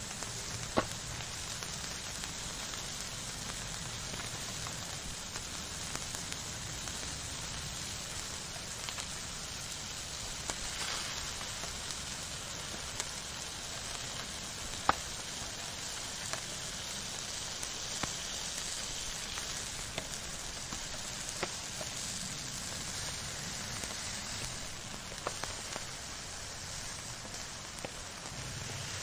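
Fire burning with a steady hiss and scattered sharp crackling pops, the loudest about a second in and again midway.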